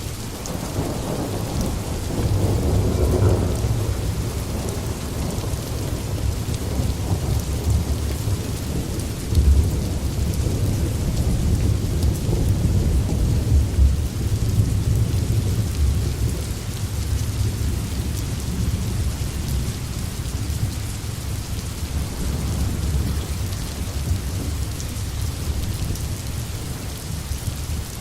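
Steady heavy rain falling in a forest, with a deep low rumble underneath that swells over the first few seconds and again in the middle.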